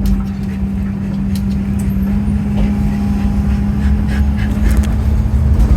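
Engine and road rumble inside a moving RV, with a steady hum throughout.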